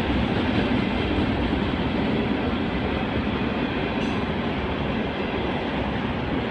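Vermont Railway train's cars rolling past, a steady rumble of steel wheels on the rails that eases off slightly.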